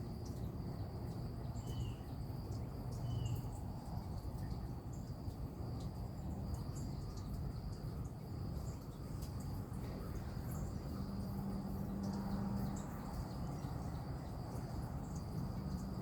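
Steady high-pitched insect trill, like crickets, with two short bird chirps about two and three seconds in, over a low background rumble.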